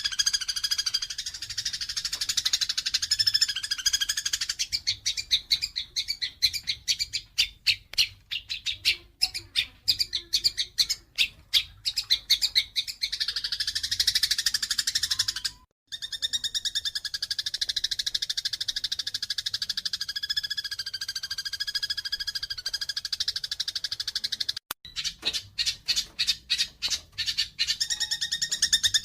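Eurasian tree sparrows chattering and chirping in a fighting bout: a dense, fast chatter that breaks into runs of rapid separate chips, twice.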